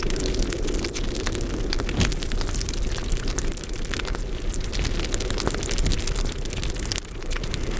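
Close-miked mukbang eating sounds, sped up: a dense run of wet chewing, lip-smacking and mouth clicks over a steady low rumble.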